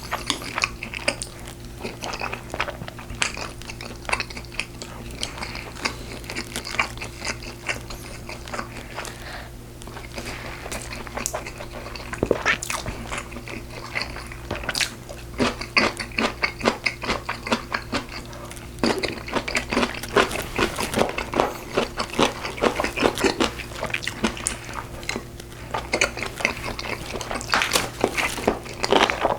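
Close-miked chewing and biting of braised pork ribs: irregular wet smacks and crunchy bites, busiest in the second half. A steady low hum runs underneath.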